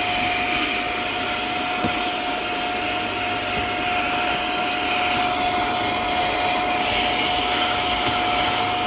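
HŌM cordless electric air duster and mini vacuum, with its high-speed 51,000 RPM motor, running steadily in vacuum mode with a constant whine over a rush of air.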